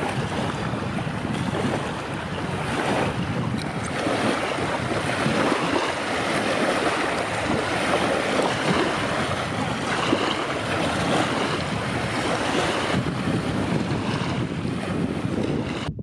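Strong wind blowing over the microphone: a loud, steady rushing noise that cuts off abruptly just before the end.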